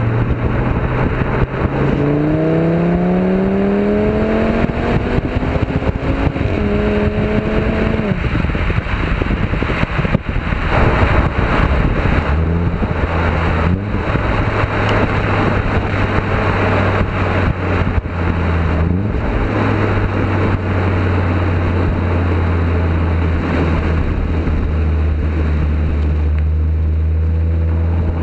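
Audi TT RS's turbocharged 2.5-litre five-cylinder engine, remapped and running through a decatted sports exhaust, accelerating with its pitch rising for about eight seconds. The pitch then drops, there is a few seconds of rougher noise, and the engine settles into a steady low drone at cruise.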